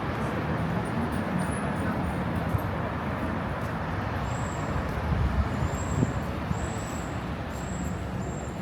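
City street traffic: a steady rumble of passing cars and buses, with a few short, high-pitched tones in the second half.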